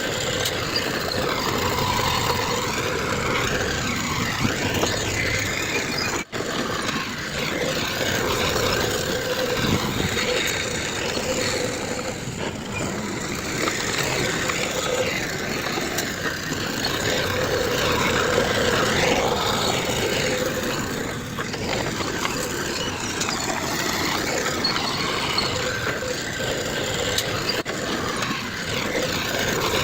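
Diesel engines of a bulldozer and dump trucks running steadily as they work the fill, with a brief break in the sound about six seconds in.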